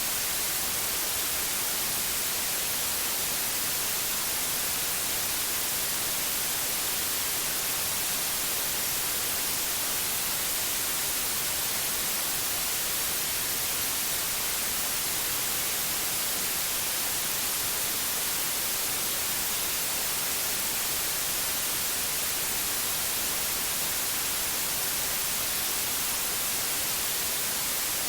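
Pure white noise: a steady, even hiss, brightest in the highs, with no breaks or changes.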